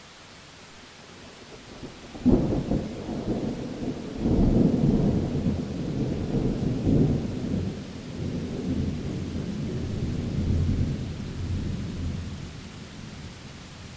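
Thunderclap during a rainstorm: a sharp crack about two seconds in, then deep rolling thunder that swells again and fades over about ten seconds, over steady rain.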